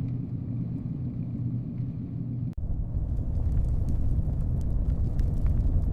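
Steady low rumble with a faint hum. About two and a half seconds in it cuts off abruptly, and a louder, deeper rumble with scattered faint clicks takes over.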